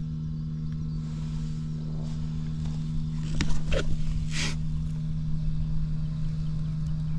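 Honda XL250S's single-cylinder four-stroke engine idling steadily, with no abnormal noises. A few sharp clicks and a short hissy burst come midway.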